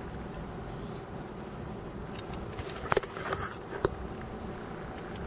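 Steady low hum of a vehicle's engine idling, heard from inside the car. A few short sharp clicks stand out about three seconds in.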